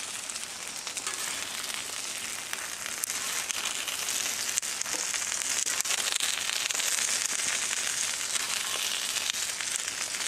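Cornmeal-breaded catfish pieces sizzling and crackling in oil on a hot Blackstone flat-top griddle, with scattered light clicks and scrapes as a metal spatula lifts pieces off the griddle.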